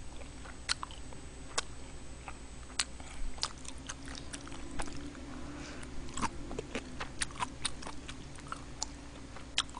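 Close-miked chewing of kimchi: irregular crisp crunches and wet mouth clicks.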